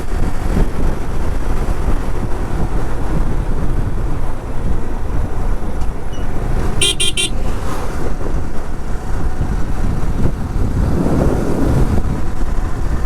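Steady wind and road noise of a motorcycle being ridden, with a short high-pitched horn toot, sounded in a few quick pulses, about seven seconds in.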